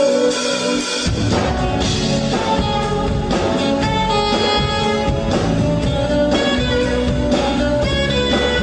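Live pop band playing a song's instrumental introduction, with guitar over sustained keyboard-like notes; bass and drums come in about a second in.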